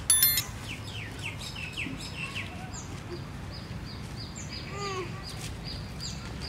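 Small birds chirping in the background, a rapid series of short falling chirps. A brief, sharp, high-pitched squeak just after the start is the loudest sound.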